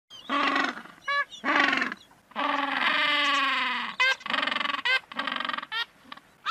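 Humboldt penguins braying: a run of short calls, with one long drawn-out call in the middle.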